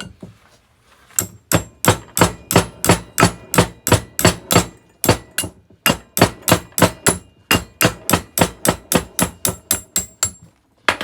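Hammer striking a stuck part of a steel milling machine vise, about three blows a second for roughly nine seconds, each with a short metallic ring, to knock the part loose.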